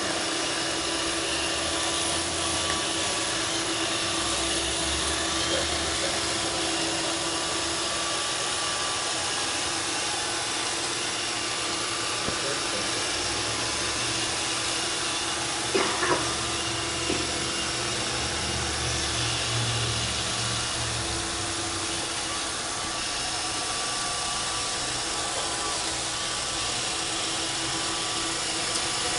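Roomba 531 robot vacuum running with a steady whir, with a brief knock about sixteen seconds in.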